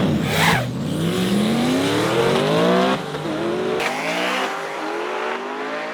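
A manual-shift drag car launching hard and accelerating down the strip. Its engine climbs steadily in pitch, drops at a gear change about three seconds in, then climbs again through further shifts.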